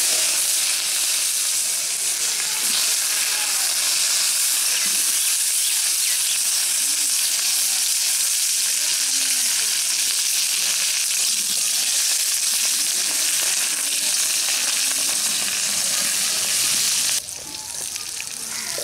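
Potato wedges frying in hot oil in an iron karahi: a loud, dense sizzle that starts suddenly as they are tipped into the oil. Near the end it drops sharply to a quieter sizzle.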